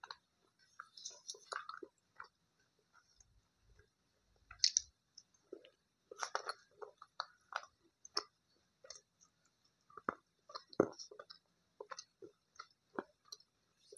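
Close-up chewing and crunching of hard slate-pencil pieces, in irregular crackly bites, with small clicks of fingers and pieces against a steel bowl.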